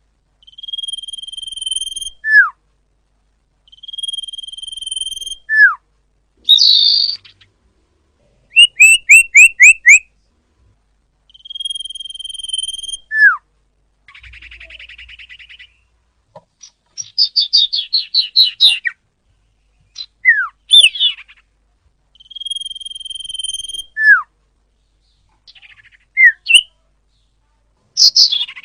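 Common iora (cipoh, also called sirtu) singing: four long, steady whistles, each ending in a sharp falling note. Between them come a quick run of five rising notes, a buzzy rattle and short chattering phrases.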